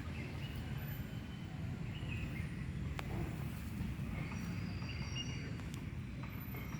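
Outdoor background noise: a steady low rumble with a few faint, short bird chirps and a single sharp click about three seconds in.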